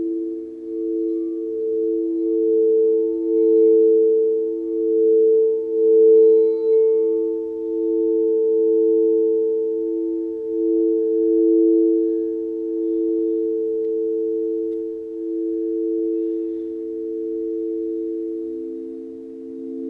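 Sound-healing tones: several low, steady pitches held together, swelling and fading in slow pulses, with a lower tone growing louder near the end.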